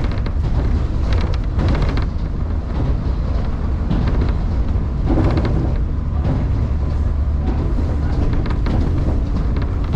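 Electric train running at speed between stations, heard from inside the car: a steady low rumble of wheels on rail with brief clattering now and then.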